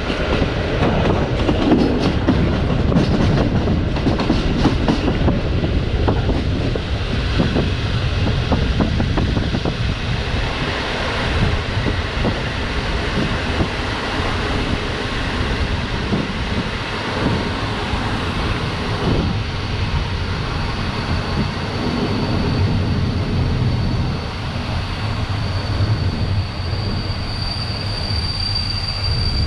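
Passenger train carriage heard through an open window, its wheels clattering over rail joints and points as it runs into a station. A thin, high wheel squeal comes in during the last few seconds and grows louder.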